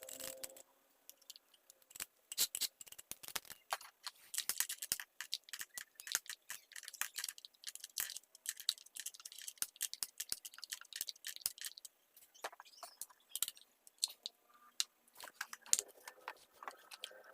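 Rapid, irregular clicks, clinks and scrapes of small metal and plastic parts and tools being handled while a mini chainsaw is taken apart and cleaned.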